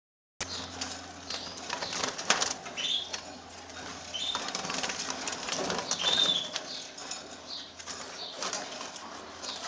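Caged birds fluttering their wings in a run of quick rustles and knocks, with a few short chirps in between.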